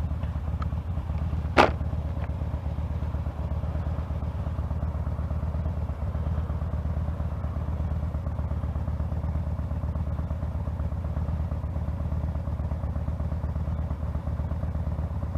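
Motorcycle engine running steadily at an even note, with one sharp click about a second and a half in.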